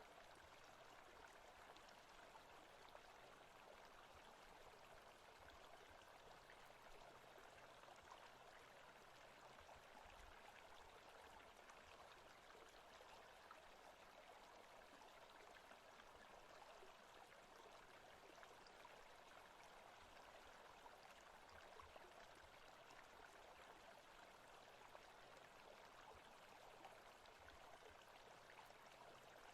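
Very faint, steady rushing like a forest stream, from a forest-sounds ambience track, with a faint low hum that comes and goes.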